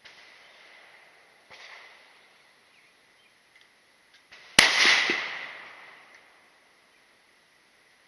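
A single gunshot a little past halfway, loud and sharp, with an echo that trails off over about a second and a half. Two much fainter bangs come before it.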